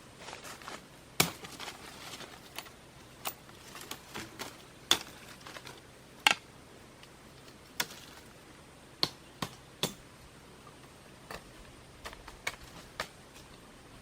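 A series of sharp, irregular knocks and clicks, spaced a second or so apart, the loudest about a second in and again around five and six seconds in.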